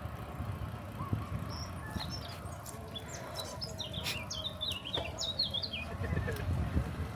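A songbird singing a quick run of high, jumping chirps from about two seconds in until near the end, over a steady low rumble.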